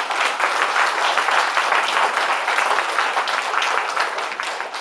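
Audience applauding, steady dense clapping that fades near the end.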